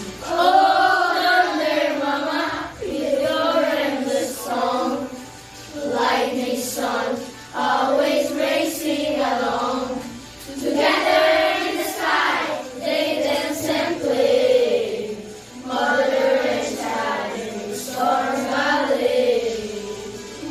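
A group of children singing a song together, in phrases of about two seconds with short breaths between them.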